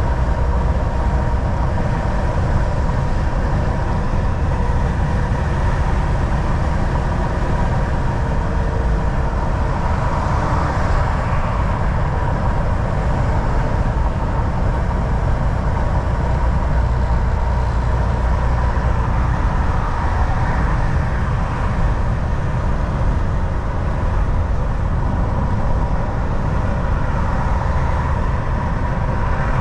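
Volvo VNL 760 semi truck's diesel engine drone and road noise, heard from the driver's seat while cruising steadily on the highway: a deep constant rumble with a faint steady hum above it.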